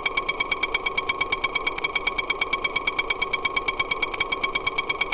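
Suzuki Jimny JA11 engine heard through a homemade empty-can sound scope: a rapid, even ticking, about twelve a second, over a steady ringing tone.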